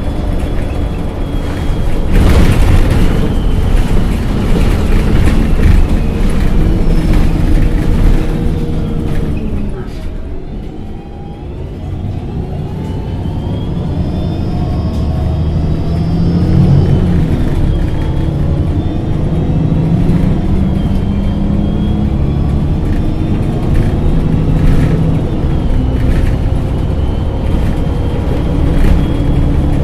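MAN NG 273 LPG articulated bus running, a steady engine and drivetrain rumble. About ten seconds in it eases off and dips, then builds again with a rising whine as the bus accelerates.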